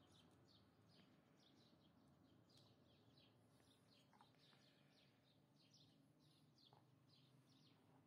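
Near silence, with birds chirping faintly in the background, many short high chirps in quick succession.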